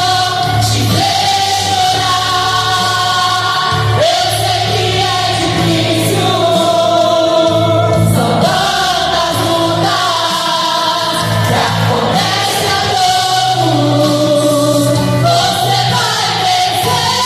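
A choir singing a gospel song over a steady instrumental accompaniment, with long held notes.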